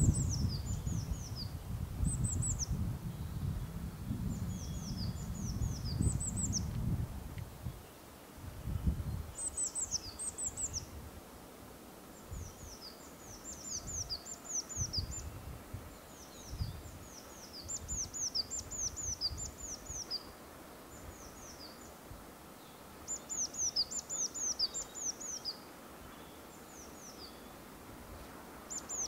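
Woodland songbird singing: short runs of high, quickly falling chirps repeated every second or two. Gusts of wind buffet the microphone with a low rumble for the first several seconds, then die down.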